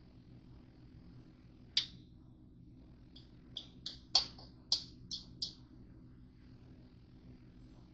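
A knife chopping on a cutting board, cutting up hotdogs: one sharp click, then a quick run of about seven clicks, over a low steady hum.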